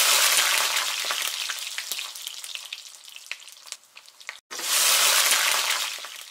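Food frying in hot oil: a loud sizzle with sharp crackling pops that dies away over a few seconds. It cuts off abruptly about four and a half seconds in and starts again loud, fading near the end.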